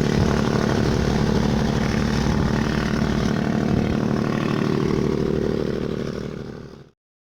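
Diesel bus engine brake working as the bus goes downhill, a rapid, steady pulsing rattle. It fades and then cuts off suddenly near the end.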